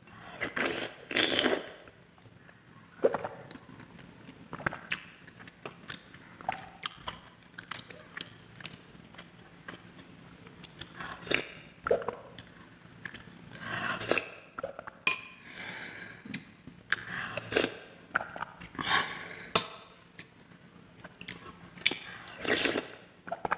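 Close-miked eating sounds: a spoon or other cutlery clinking against a dish, with bites and chewing, in scattered short bursts.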